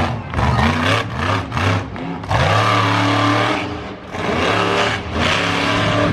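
Monster truck engine revving hard in repeated surges, the throttle opening and closing every second or two.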